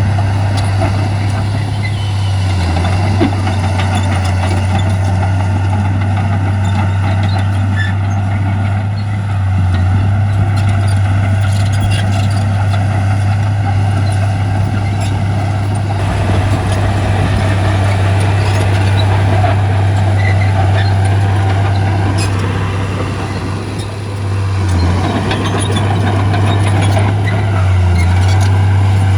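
Heavy diesel engine of earthmoving machinery running steadily with a deep, constant hum, easing briefly about three-quarters of the way through before picking up again.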